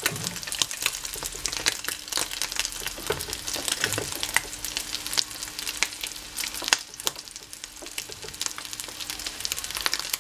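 Rice-and-egg fritters frying in hot oil in an earthenware cazuela: a steady sizzle full of dense, sharp crackling pops.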